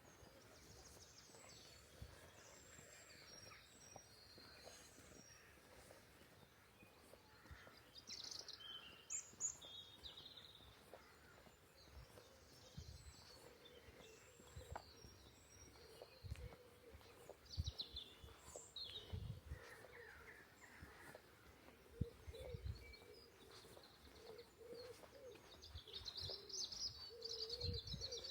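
Faint birdsong: several small birds chirping and singing in short phrases, busier near the end, with a few soft low thuds.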